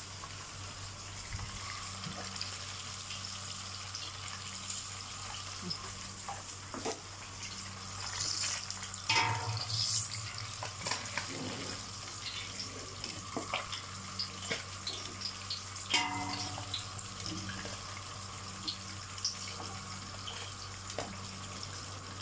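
Chicken, garlic and ginger frying in hot oil: a steady sizzle with many small crackling pops, over a constant low hum. Two louder short sounds break in about nine and sixteen seconds in.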